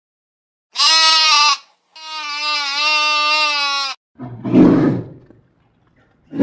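Animal calls: a short pitched call, then a longer held pitched call, followed by two low, rough calls, the second right at the end.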